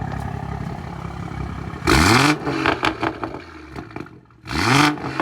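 Tuned BMW M240i's turbocharged straight-six revved twice from idle with the exhaust valves closed: two short, sharp blips, each followed by a rattle of pops and crackles on the overrun.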